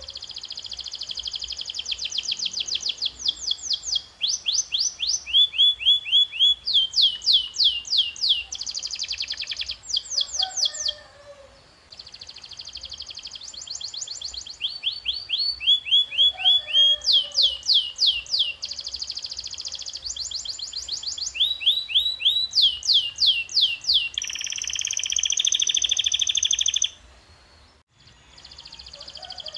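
Domestic canary singing a fast trilled song: each phrase is a rapid run of repeated notes, and the phrase changes every second or two. There is a short pause about eleven seconds in and another near the end.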